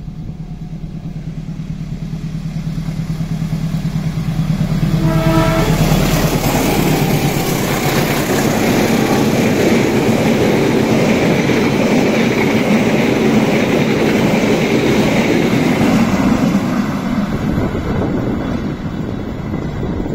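Passenger train hauled by a CC 203 diesel-electric locomotive approaching with a steady engine drone, a short horn blast about five seconds in, then the locomotive and coaches passing close by with engine noise and wheels running on the rails, easing off over the last few seconds.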